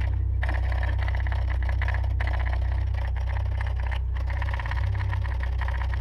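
An engine idling steadily: a deep, even hum with a fast, fine clatter over it, dipping briefly a little past four and a half seconds in.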